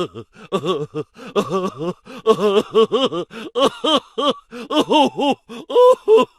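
Comedy sound effect of a cartoonish voice babbling in quick short syllables, each rising and falling in pitch, with brief gaps between runs.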